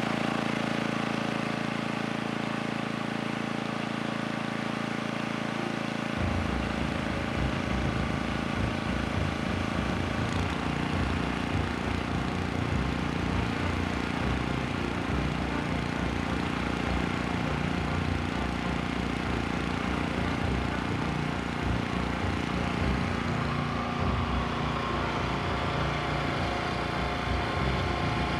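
Small air-cooled single-cylinder Robin generator engine running on a cheap aftermarket replacement carburetor. It runs steadily, and about six seconds in its low, chugging note becomes rougher and more uneven.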